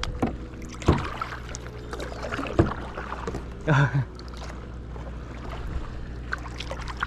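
Kayak paddling: paddle strokes in the water over a steady low rumble of wind and water, with a few sharp knocks and a brief louder sound about halfway through.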